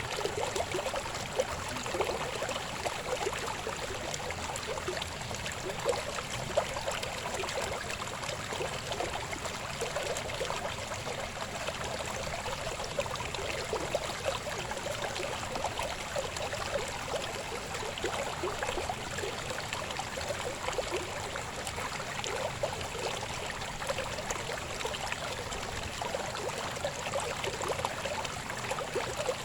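Babbling river: a steady rush of water flowing over rocks, with constant bubbling and small splashes.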